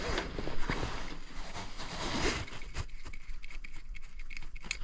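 Faint clicks and scrapes of handling as meter test leads are worked onto a furnace blower motor's run capacitor, with a cluster of small clicks in the second half.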